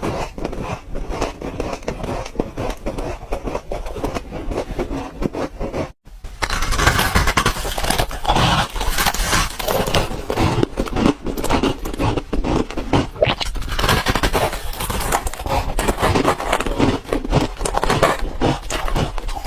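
Ice cubes being bitten and chewed close to the microphone: dense, irregular crunching and cracking. It cuts out abruptly for a split second about six seconds in, and the crunching is louder after that.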